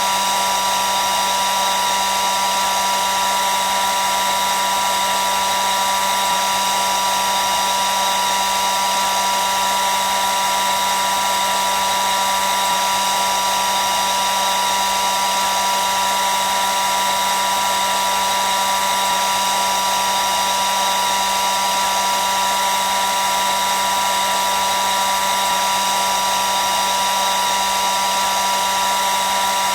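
Hair dryer running continuously: a steady blowing hiss with a constant whine near 1 kHz and a low hum, unchanging throughout.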